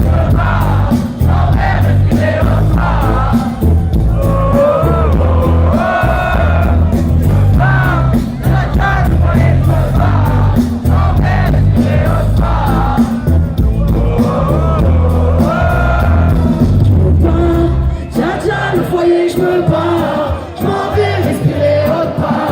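Live rap concert music: a loud, bass-heavy beat with voices singing over it and crowd noise. The bass drops out about 18 seconds in, leaving the voices.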